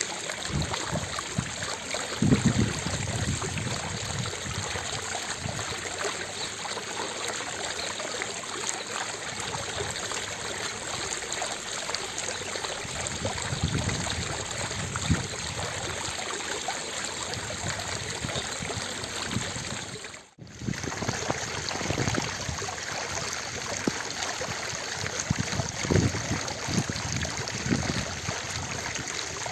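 Fountain water falling and splashing in a steady rush, with occasional heavier low splashes. The sound drops out for a split second about two-thirds of the way through, then resumes.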